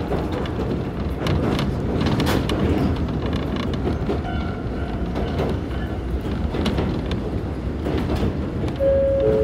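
Konan Railway Owani Line railcar running, heard from inside the car: a steady rumble of wheels on rail with scattered clicks and creaks. Near the end a steady two-note tone sets in over the running noise.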